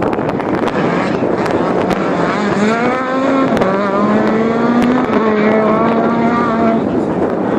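Rally car engine running hard under a dense rush of noise. Its note climbs, drops with a gear change, climbs again and then holds. A few sharp cracks are heard.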